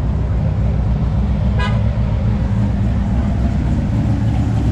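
Car engine running loud and steady with a deep rumble. A short high tone, like a horn toot, cuts in about a second and a half in.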